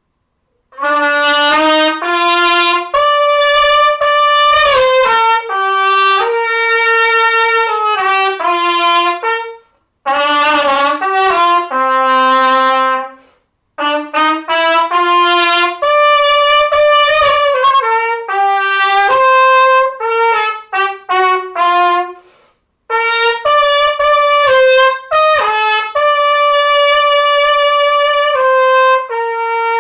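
Solo trumpet playing a melody of clear, separate notes in four phrases, with short breaks for breath between them, the last note held.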